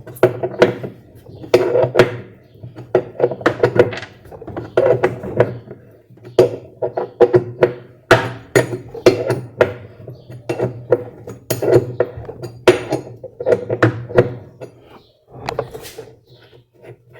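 Metal tool clicking and knocking in repeated strokes, about one cluster a second, as a rusty 13 mm bolt is unscrewed from the washing machine basket's clamp plate.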